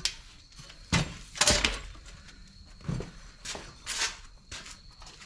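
A handful of knocks and clunks, the loudest about one and a half seconds in, as a 196cc diesel engine that is not running is moved and set down into a four-wheeler's frame.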